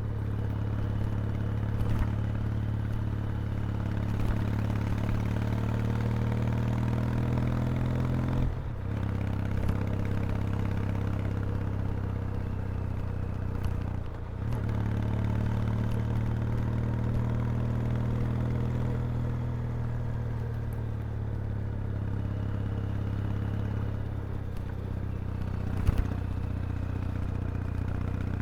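Kawasaki W800's air-cooled vertical-twin engine and exhaust running under way, the engine note slowly rising and falling with the throttle. There are brief drops in sound about eight and a half and fourteen seconds in, as at gear changes, and a single sharp knock near the end.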